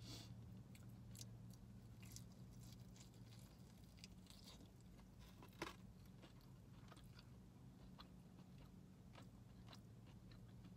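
Faint chewing of a fried chicken finger: scattered small crunches and mouth clicks, one sharper click about five and a half seconds in, over a steady low hum.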